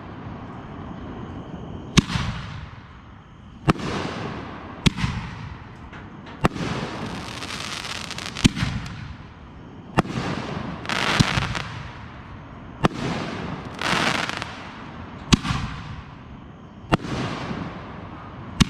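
Aerial fireworks bursting one after another, about ten sharp bangs spaced one to two seconds apart, each followed by a fading crackle and hiss of the burst's effect.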